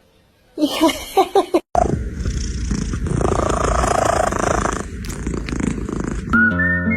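A domestic cat purring loudly close to the microphone, preceded by a few quick, short pitched calls. Music with steady notes comes in near the end.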